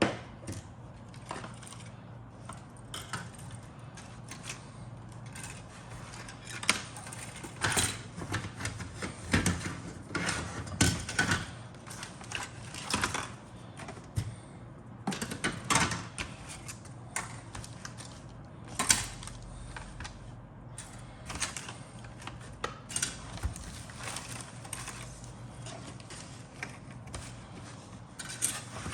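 Plastic model-kit parts and their bags being handled in the box: irregular clicks, rattles and crinkles, busiest in the middle, over a low steady hum.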